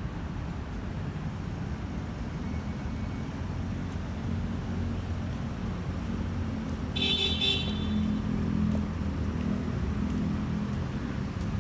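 City road traffic: a steady rumble of passing cars and engines, louder in the second half, with a short high-pitched horn-like beep about seven seconds in.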